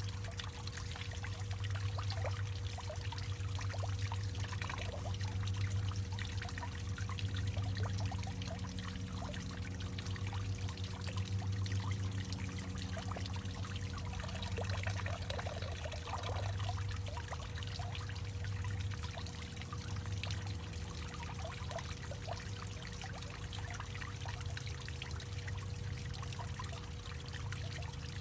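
Water trickling and dripping, with many small plinks over a steady low hollow hum and a faint sustained tone, as in a hollowed-out tree.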